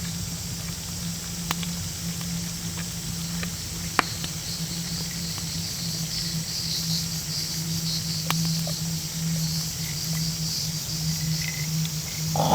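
Insects chirping steadily, with a few sharp, isolated pops from a wood campfire and a low steady hum underneath.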